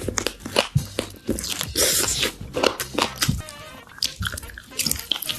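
Close-miked eating: a person chewing and biting food, with quick, irregular wet clicks and crunchy bites.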